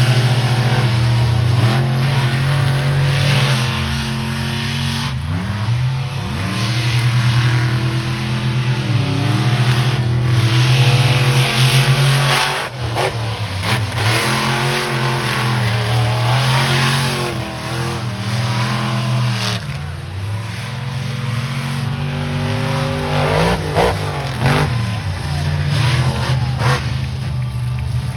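Monster truck engines running and revving, the pitch rising and falling again and again over a steady drone.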